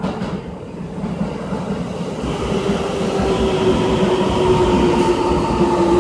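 Keikyu 1000 series electric train running in alongside the platform. A rumble of wheels on rail grows louder about two seconds in as the cars draw level, under a steady motor whine that falls slightly in pitch.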